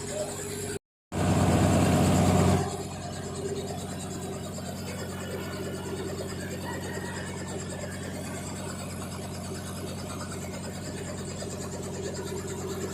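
A vehicle engine running with a steady low drone. The sound cuts out completely for a moment just under a second in, comes back louder for about a second and a half, then settles back to the steady drone.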